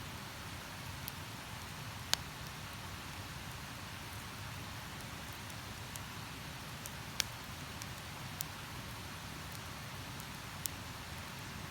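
Wood campfire crackling, with a few sharp isolated pops spread across several seconds over a steady rushing hiss.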